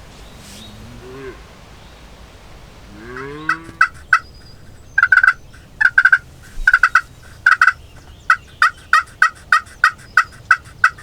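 Turkey yelping: a long series of short, clear yelps starting about three and a half seconds in, spaced out at first, then coming steadily at about three a second.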